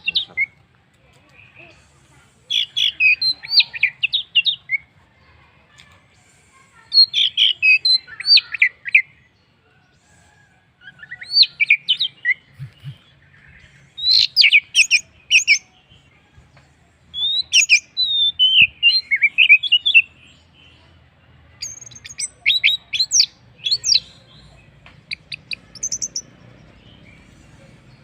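Orange-headed thrush (anis merah) singing: about seven quick, varied phrases of whistled notes sliding up and down, each a second or two long, with short pauses between them.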